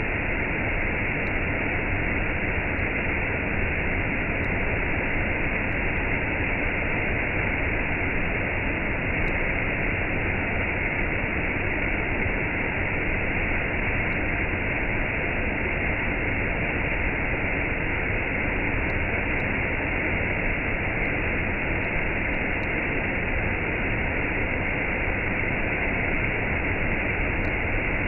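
Waterfall and cascade: a steady rush of falling water that does not change.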